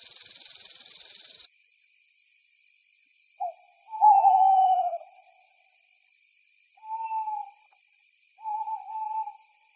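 Steady insect chirring under three drawn-out, hoot-like animal calls, the first, about three and a half seconds in, the loudest and slightly falling in pitch.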